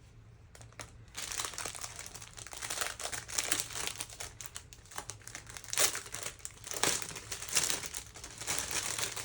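Plastic packaging crinkling as small bags of diamond-painting drills are handled, with a few sharper, louder crackles about six and seven seconds in.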